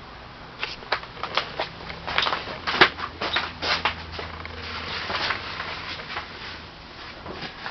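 Zipper on a vintage canvas cabin tent, repaired with JB Weld, being pulled along in short uneven strokes: a series of scratchy rasps and clicks starting about half a second in.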